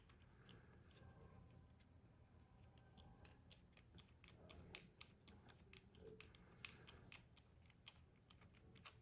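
Faint, scattered light clicks and taps of small tools and metal parts being handled as a Spyderco Stretch 2 folding knife's pivot is taken apart.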